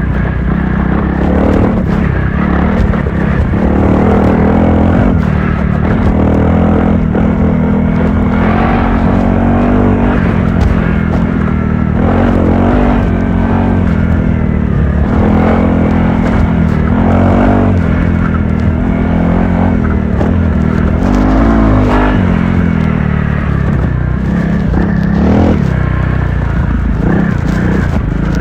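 Honda CRF300L's single-cylinder four-stroke engine being ridden hard, its pitch rising and falling over and over as the throttle is opened and closed.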